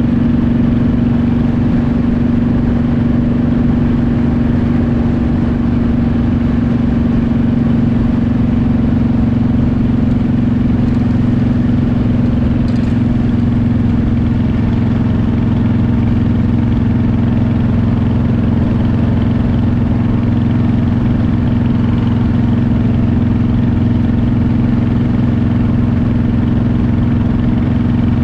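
Motorcycle engine running at a steady cruising speed, a constant drone that holds one pitch throughout.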